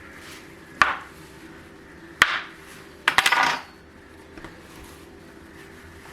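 Kitchen utensils or dishes clinking: a sharp knock about a second in, another at two seconds, then a short clatter of several quick clicks a little after three seconds.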